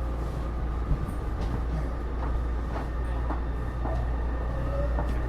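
Taipei Metro Series C301 metro car (Bombardier IGBT-VVVF drive) running, heard from inside the car: a steady low rumble with two thin steady high tones, a few light clicks, and a faint tone rising near the end.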